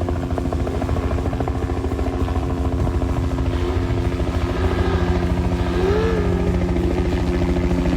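An engine running steadily at a constant pitch, with a fast, even pulsing.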